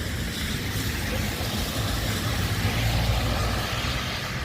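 A car passing on a wet road: engine rumble and tyre hiss that swell to a peak about three seconds in and then fade.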